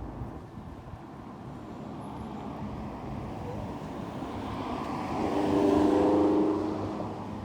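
A car passing by on the road, growing louder to a peak with a low engine tone about six seconds in, then fading, over a steady rumble of road and wind noise.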